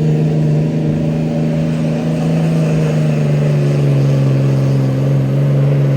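Dodge Ram 2500 pickup's engine held at high revs under heavy load while pulling the sled. One strong, steady engine note that dips slightly in pitch at the start and then holds.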